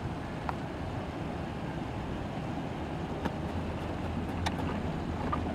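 A distant multiple-unit passenger train running along the line, heard as a low steady rumble that grows slightly louder near the end. A few faint sharp ticks sound over it.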